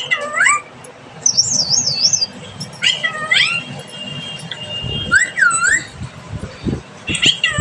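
Pet parrot calling and whistling: a string of short swooping notes, a fast warbling trill, and a held whistle. A few soft low thumps sound in the second half.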